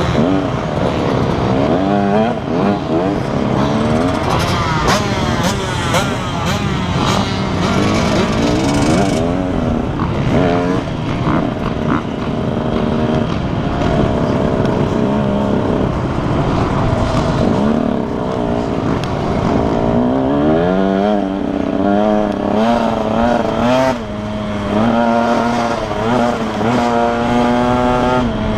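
Several motocross bikes racing past on the track, their engines revving up and dropping through the gears, overlapping one another. Near the end one bike rises in pitch several times in steps as it accelerates through the gears.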